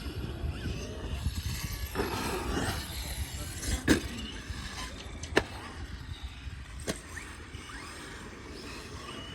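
Wind rumbling on the microphone, with three sharp knocks about a second and a half apart, the loudest about four seconds in.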